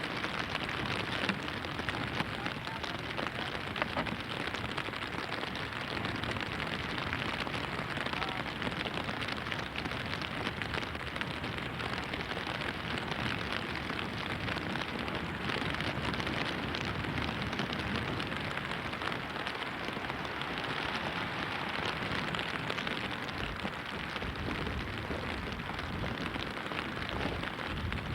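Rain falling steadily in a downpour: an even hiss made of many small drop impacts.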